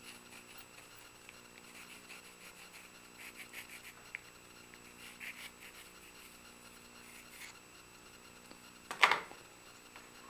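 A compass scratching as it traces a line on a wooden blank, in a few faint, short strokes. One brief, louder noise comes near the end.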